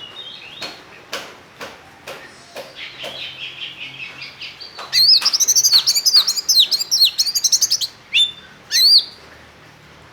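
Oriental magpie-robin (kacer) singing. It opens with a train of sharp ticking clicks, about two a second, over soft chattering. About halfway in, a loud, rapid string of high whistled and slurred notes takes over for three seconds, and two more single calls follow near the end.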